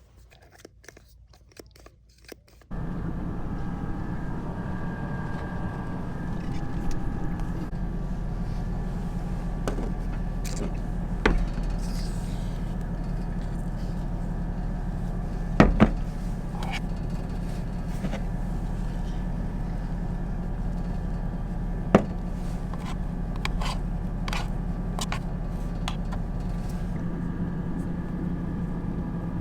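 Near quiet with a few small clicks, then about three seconds in a steady vehicle running noise with a low hum cuts in suddenly and holds, broken by a few sharp clicks and knocks.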